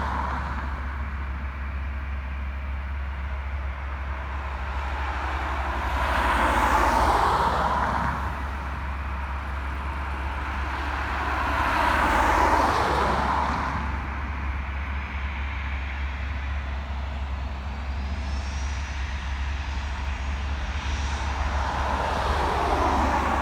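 Vehicles passing one after another, three times, each swelling and fading over about two seconds, over a steady low rumble.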